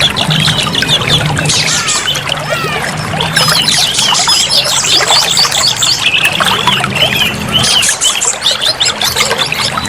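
Oriental magpie-robin (kacer) singing a rapid, unbroken run of varied chirps and whistles, over a steady trickle of running water.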